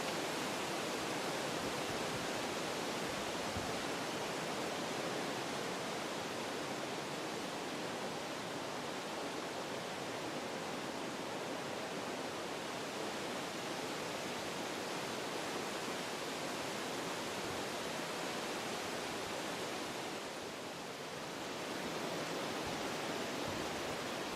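Wind blowing through forest trees: a steady rushing hiss that eases briefly a little past twenty seconds in, then picks up again.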